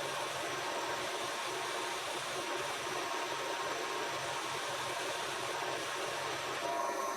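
A machine tool running steadily with an even hiss and a faint hum. Its sound shifts slightly near the end.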